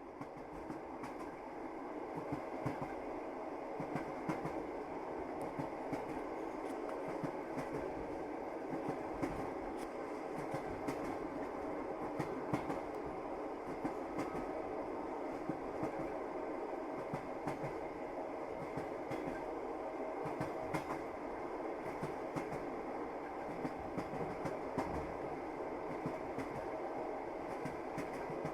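Train wheels clicking over rail joints over the steady rumble of a moving railway carriage, fading in over the first couple of seconds.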